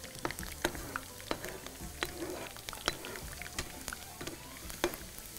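Nuts frying in hot oil in a pan, a steady sizzle with irregular sharp crackles, as they are toasted until golden. A slotted spoon stirs them toward the end.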